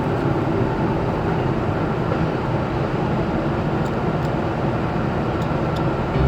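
Steady, loud rushing noise of an automatic car wash, water spray and machinery heard from inside the car, drowning out the music playing in the cabin.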